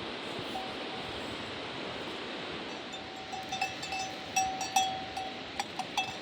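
A metal bell clanking irregularly, starting about halfway in, with short ringing strikes, over a steady rushing noise.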